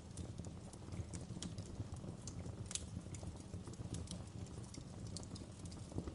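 Fireplace crackling: irregular sharp snaps and pops, several a second, over a low steady rumble of the burning fire.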